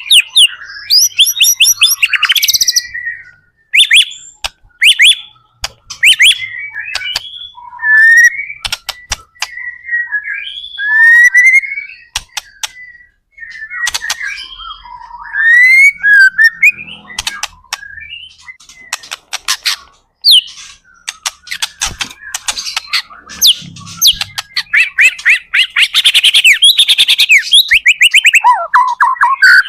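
White-rumped shama singing loudly, phrase after phrase of whistled glides, rapid trills and sharp clicking notes with short pauses between them, building to a dense run of fast notes near the end.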